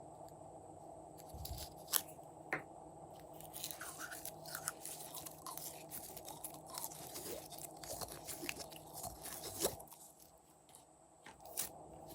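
Glossy slime being mixed by hand, with a few sharp clicks and then a long run of dense crunching and crackling that eases off about ten seconds in.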